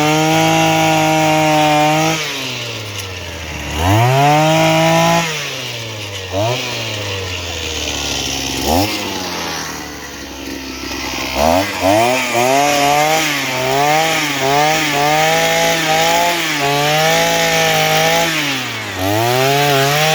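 Homelite earth auger's two-stroke engine revving up and down: held high for about two seconds, dropping back, rising again, then settling low for a few seconds before a run of quick throttle blips through the second half.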